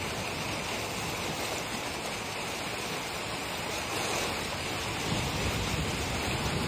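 Creek water rushing through a freshly breached sand berm toward the ocean, a steady rushing hiss that gets a little louder near the end.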